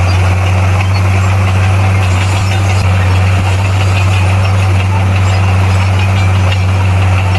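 Bulldozer's diesel engine running steadily: a deep, even drone that holds one pitch without revving up or down.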